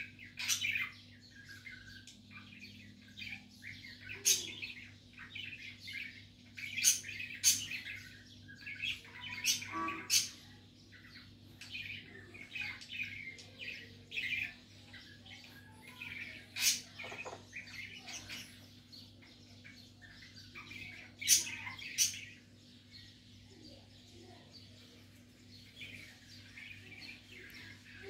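Small birds chirping in short, irregular runs of quick calls, with a few sharper, louder chirps; a steady low hum runs underneath.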